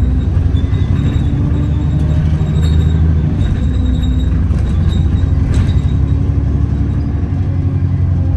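Alexander Dennis Enviro400 double-decker bus driving along, heard from inside the saloon. The engine and drivetrain give a steady low drone, with a hoover-like whine and loud axle noise running through it.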